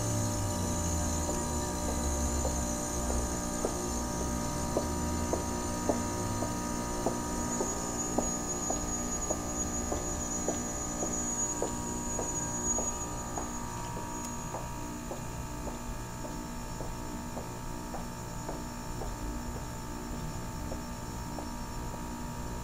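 Goodman heat pump outdoor unit humming steadily, with a regular light ticking a little under twice a second. A low rumble dies away in the first few seconds.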